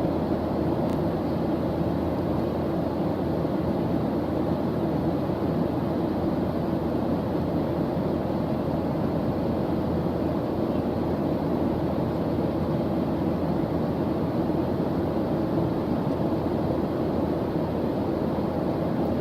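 Steady white-noise study track: an even, unbroken rushing hiss weighted toward the deep end, with no changes.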